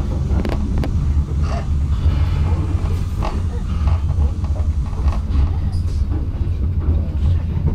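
Passenger train in motion, heard from inside the carriage: a steady low rumble with scattered knocks and rattles from the wheels and the car body.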